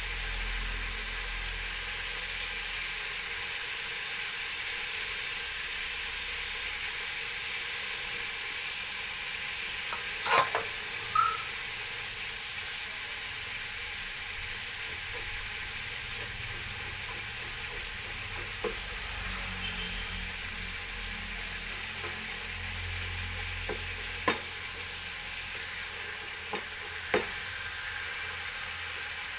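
Pork liver frying in oil in a pan, a steady sizzle, with a few sharp knocks of a utensil against the pan while it is stirred, the loudest a pair about ten seconds in.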